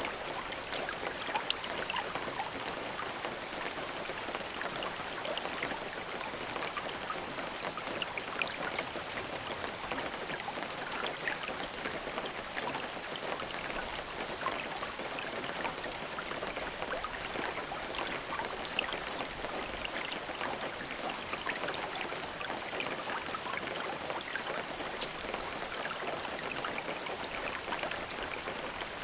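Steady rain falling, with many individual drops pattering and ticking on a surface; no thunder.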